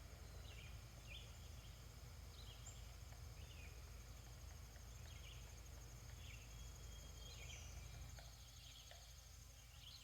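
Faint outdoor ambience: small birds chirping in short calls about once a second over a steady high insect trill.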